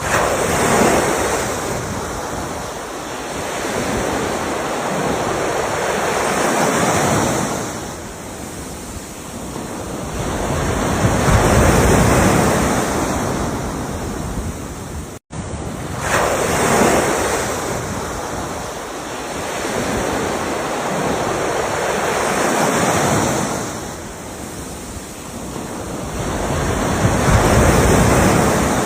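Ocean waves washing in, swelling and falling back about every five or six seconds. There is a momentary cut to silence about halfway through, after which the same wash of surf resumes.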